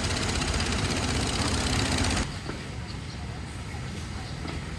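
An engine running steadily, loud for the first two seconds and then dropping abruptly to a quieter level.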